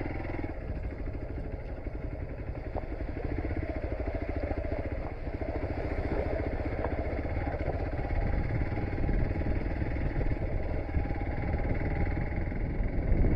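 Hero XPulse single-cylinder motorcycle engine running steadily while riding a rough off-road track, getting slightly louder near the end.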